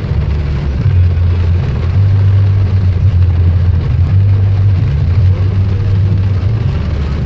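Road vehicle driving: a steady, loud low engine and road drone with a constant noisy hiss over it.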